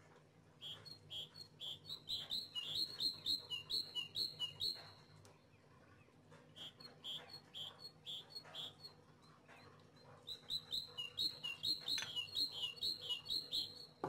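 A bird chirping in three bursts of quick, repeated high notes, several a second, each note dropping slightly in pitch. A faint steady hum lies underneath.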